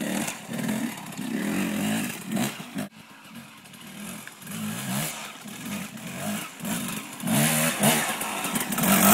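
Dirt bike engine revving up and down, the pitch rising and falling over and over as the bike is ridden. It drops off abruptly about three seconds in and is louder again near the end.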